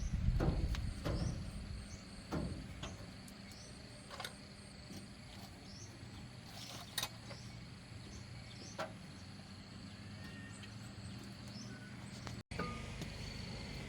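Scattered knocks and clicks, several in the first two or three seconds and a few single ones later, over a faint steady hum, with insects chirping in a steady repeating pattern.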